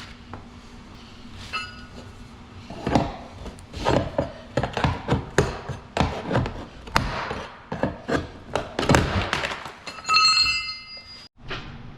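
Irregular knocks, clicks and rattles of hand tools and parts being handled during car bodywork teardown. A faint ringing metal clink comes early, and a louder one comes near the end.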